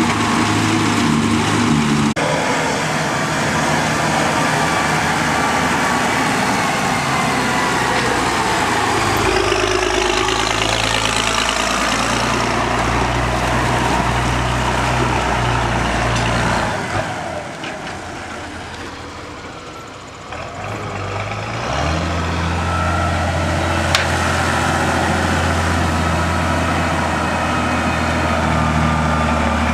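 Tractor engines running, with silage-harvesting machinery. The sound changes abruptly about two seconds in, falls away for a few seconds past the middle, then a tractor engine comes back in strongly.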